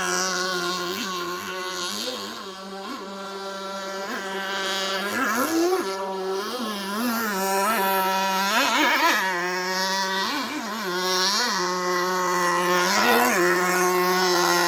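Small nitro engine of a radio-controlled jet-ski running at a steady high pitch, with repeated short throttle blips that raise the pitch and drop straight back.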